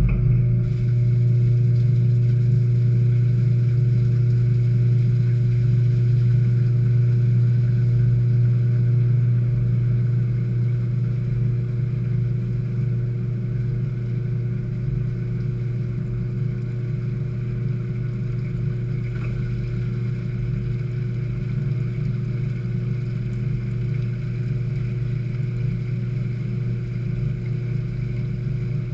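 Speed Queen AWNE92 9 Series washing machine running its final spin: the machine starts abruptly, then a steady, even motor hum holds, easing slightly after about ten seconds.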